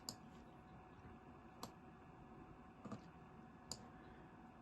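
Four faint, sharp clicks, a second or so apart, over near silence, such as a computer mouse being clicked.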